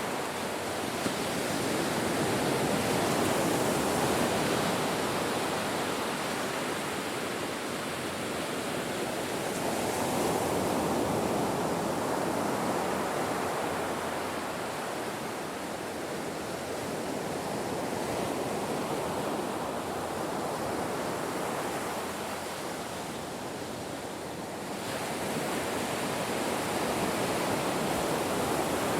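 Ocean waves washing onto a shore in a continuous rush that swells and eases roughly every seven or eight seconds, with a lull a little before the end.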